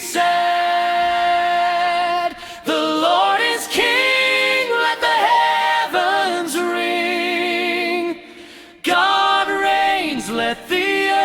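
A choir singing a hymn a cappella in long, held notes that glide from one pitch to the next, with a short breath-pause about eight seconds in.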